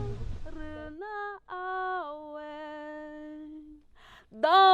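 A woman's voice singing unaccompanied, holding long steady notes with short slides in pitch between them, briefly pausing before a louder note near the end.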